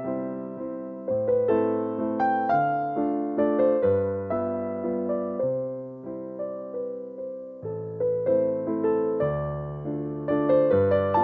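Slow, gentle piano music for meditation: notes and chords that strike and fade away, over a low bass note that changes every second and a half or so.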